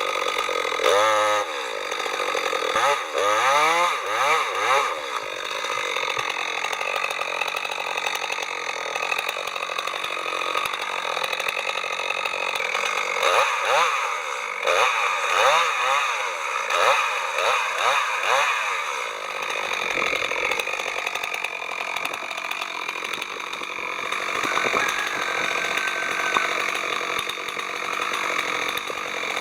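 Chainsaw engine running throughout, its pitch swooping up and down repeatedly in the first few seconds and again around the middle, and steadier in between and near the end.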